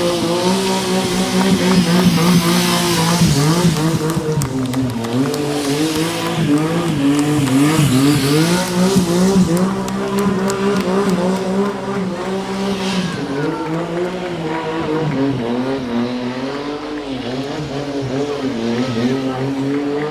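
Motorcycle engine revving up and down over and over, with bursts of tyre screech.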